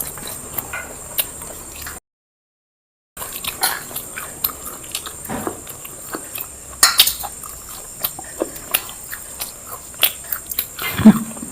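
Close-up eating sounds: wet chewing and lip smacks on mouthfuls of biryani, with scattered irregular clicks. The audio drops out completely for about a second, about two seconds in.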